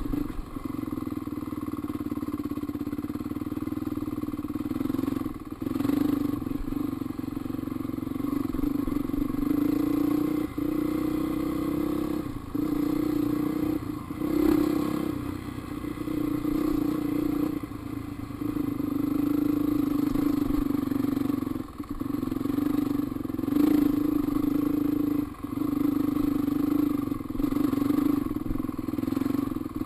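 Dirt bike engine running along a trail under changing throttle. The note swells and dips, dropping briefly several times before picking up again. Occasional clattering knocks come from the bike.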